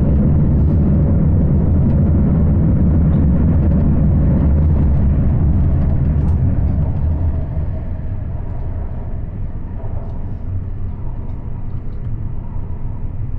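Cabin interior noise of a CAF AS-14 steel-wheeled metro train running between stations: a steady low rumble of wheels on rail and traction equipment, easing somewhat about seven seconds in.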